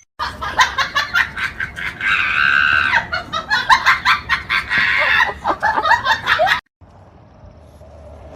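An animal's rapid repeated calls, loud and busy, which stop abruptly about six and a half seconds in; a faint low background sound follows.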